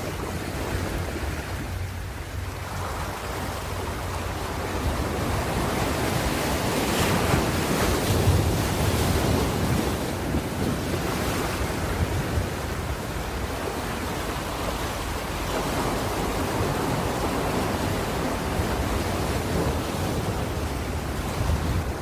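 Ocean surf washing onto a shore: a continuous rush of breaking waves that swells about a third of the way in, with wind rumbling on the microphone underneath.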